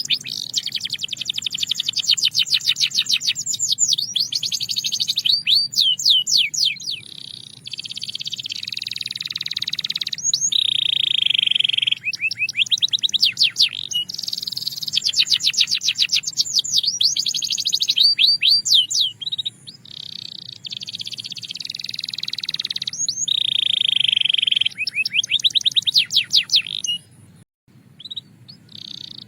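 Belgian canary singing: long high-pitched phrases of fast trilled rolls alternating with buzzy held notes, with short breaks between phrases and a brief gap near the end.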